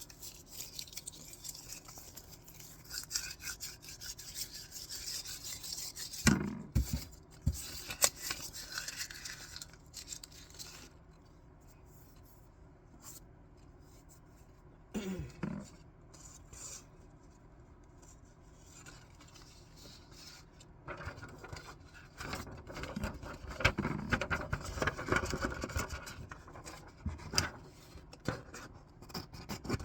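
Scissors cutting paper and paper rustling and rubbing as it is handled. The sounds come in irregular snips and scrapes, with a quieter stretch in the middle.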